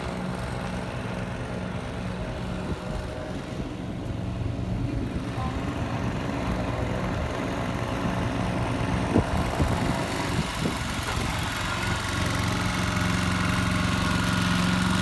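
A vehicle engine running steadily with a low hum, growing louder in the last few seconds as it comes closer.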